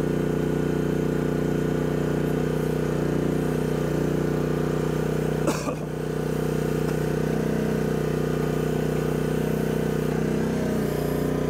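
Chinese mini excavator's engine running steadily while it drives the hydraulic auger into hard clay. About halfway through there is a short sudden sound, and the engine note dips for a moment.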